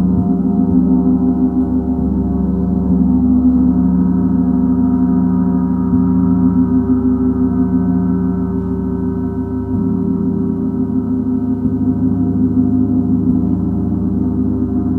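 Gong played in a continuous wash: many sustained, overlapping tones ringing together, with a low hum that swells and fades every couple of seconds and a few soft mallet strokes keeping it going.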